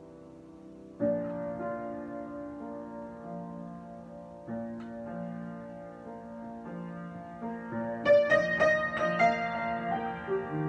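Solo piano improvisation: sustained chords struck about a second in and again midway, then a louder, quicker passage of higher notes near the end.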